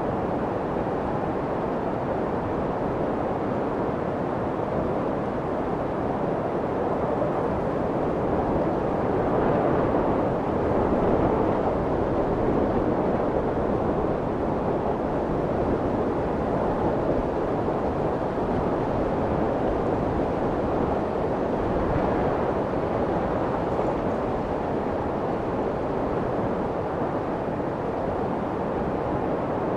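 Steady white-noise track for soothing a baby to sleep: an even, deep hiss with most of its weight low and little high treble, swelling slightly in loudness about a third of the way through.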